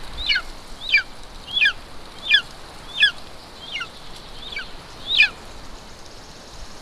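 Golden eagle chick begging at the nest while being fed: a series of about nine sharp, high, downward-slurring yelps, evenly spaced a little under a second apart, which stop about five seconds in.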